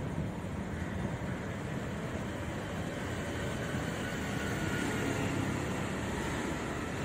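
Steady rolling rumble of a passenger train's coaches on the track as it moves away from the platform.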